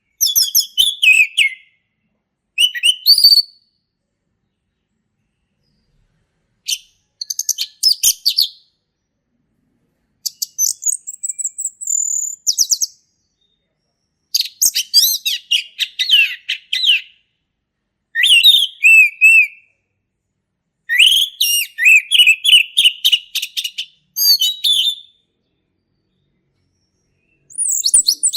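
Male orange-headed thrush singing loudly in full song. Its varied, rapid, chattering phrases come in bursts of one to three seconds with short pauses between, and a thin, higher trill comes about ten seconds in.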